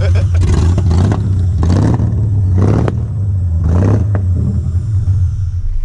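Rebuilt Holden L67 supercharged 3.8-litre V6 running on its first start-up after the rebuild, with a steady low drone and a few brief rushes of noise about one and a half, three and four seconds in.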